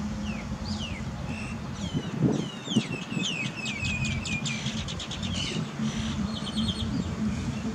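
Small birds chirping: a quick run of falling chirps in the middle and a short trill near the end. A steady low hum lies underneath, and there are two knocks a little over two seconds in.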